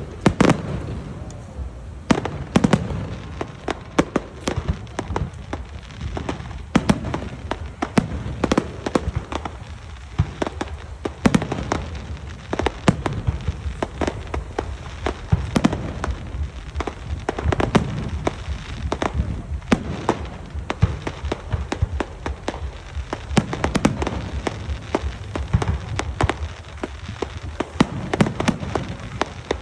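Fireworks display: a dense, continuous run of sharp bangs and crackling, with deeper booms from bursting shells every second or so.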